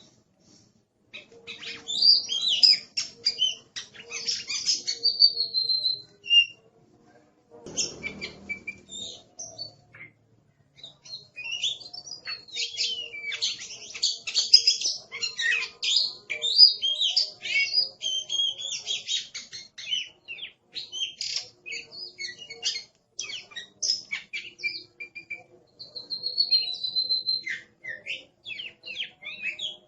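Oriental magpie-robin (kacer) singing a loud, fast, varied song of whistles, chirps and trills, delivered in bursts with short pauses between them. A brief low thump comes about eight seconds in.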